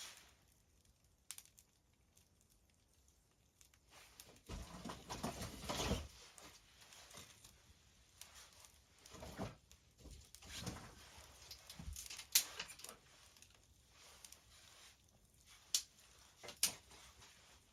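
Handling and rustling while a fire is laid in a fireplace: irregular crinkling and scraping noises, loudest for a couple of seconds near a third of the way in, with a few sharp clicks and knocks near the end.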